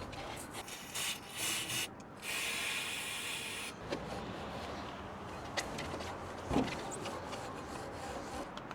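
Bicycle brake disc being cleaned by hand: rubbing and scrubbing on the rotor, with two short hissing bursts in the first few seconds and a few small knocks later on.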